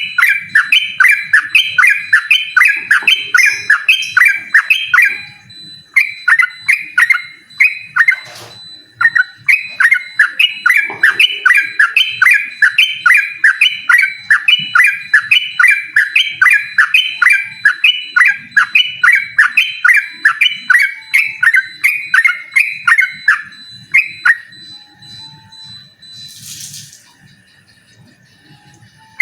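Yellow-vented bulbul singing a long run of rapid repeated chattering notes, about three a second. The run breaks off briefly twice and fades out near the end.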